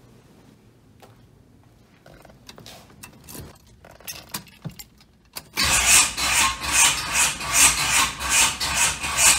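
Keys rattling and clicking, then about five and a half seconds in the starter motor begins cranking the 1969 Pontiac LeMans engine: a loud, rhythmic churn of about two to three beats a second that has not yet caught.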